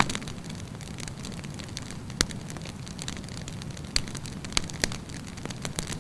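Wood campfire burning with a steady low rumble of flames and scattered sharp crackles and pops, the loudest at the start and about two, four and nearly five seconds in.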